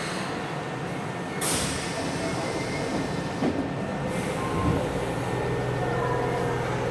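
Osaka Metro 66 series subway car pulling away from a station: a short hiss of air about a second and a half in, then from about five seconds in the steady tones of its Toshiba IGBT inverter and traction motors as the train starts moving.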